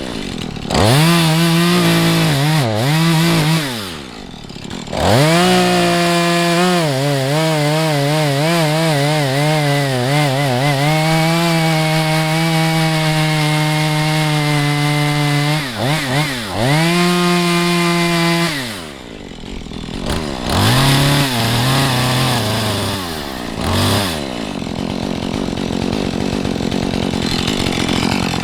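Two-stroke Husqvarna chainsaw revved several times, then held at high revs under load through two long cuts, cutting the undercut into a standing tree; the revs drop and blip again a few times before the engine noise fades near the end.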